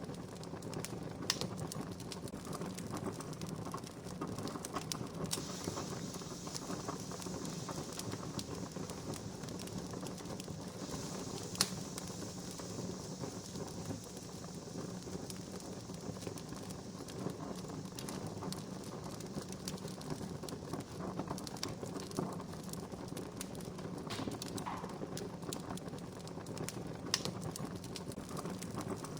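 Wood fire crackling: a dense run of small pops and ticks, with a few sharper snaps, the loudest about a third of the way in, and a soft hiss for several seconds in the middle.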